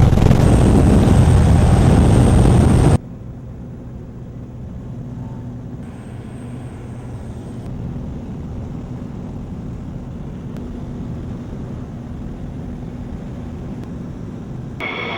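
Aircraft engine noise: loud and rushing for the first three seconds, then cut abruptly to a quieter, steady engine hum, with a high whine coming in near the end.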